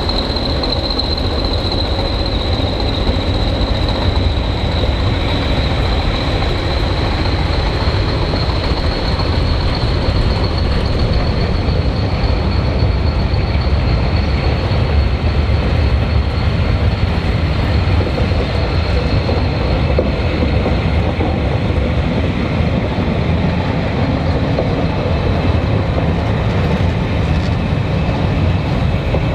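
A train rolling past on the rails, a steady loud rumble of wheels with a thin high squeal held above it throughout.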